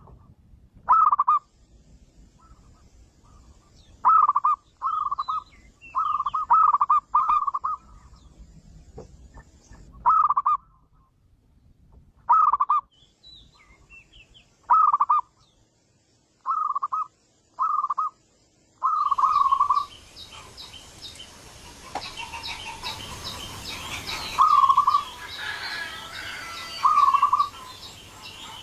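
Zebra dove (perkutut) cooing in short phrases, about a dozen, repeated every second or few with gaps in between: a lure call for perkutut. Past the middle, high rapid chirping from other birds or insects comes in behind the last two coos.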